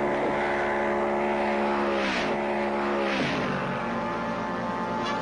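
Ford Mustang Mach 1 engine running hard at high revs. Its pitch drops sharply twice, about two and three seconds in.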